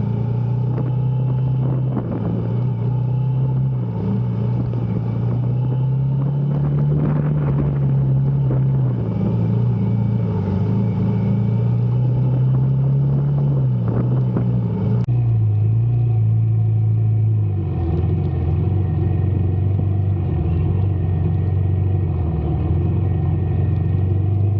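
Honda CB350's single-cylinder engine running under way, its low note slowly rising and falling with the throttle, over a steady rushing noise. The sound changes abruptly about fifteen seconds in.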